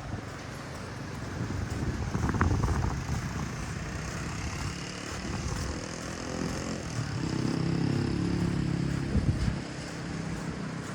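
Steady hiss of rain and surf, with the drone of a small engine passing that grows louder in the second half.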